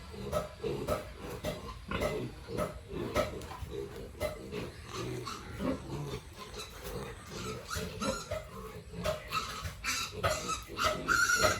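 Pigs grunting over and over in short calls, with higher-pitched squeals toward the end.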